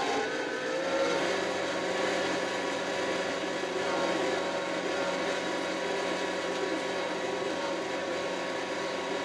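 Kioti RX7320 tractor's diesel engine running at a steady speed.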